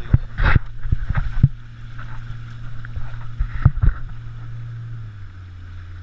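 Pontoon boat's outboard motor running with a steady low drone, dropping in pitch about five seconds in as it throttles back. Several sharp knocks come near the start and again around the middle.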